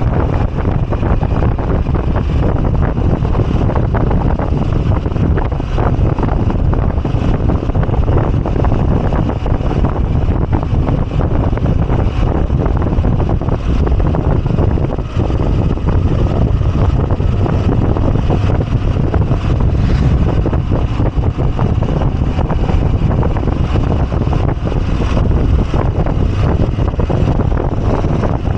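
Moto Guzzi V85TT's air-cooled transverse V-twin engine running steadily while riding, with wind rushing over the microphone.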